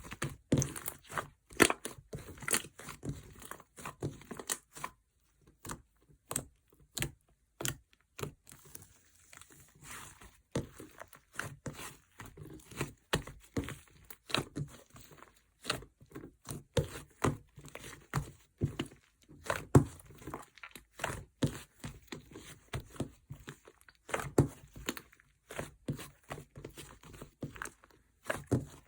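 Mixed slime being squeezed, poked and stretched by hand, giving irregular sharp pops and crackles several times a second.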